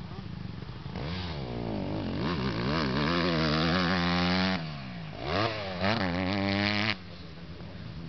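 Motocross bike engine revving hard, its pitch climbing and dropping again and again with throttle and gear changes. It falls away sharply about four and a half seconds in, comes back on hard, then drops off suddenly near the end.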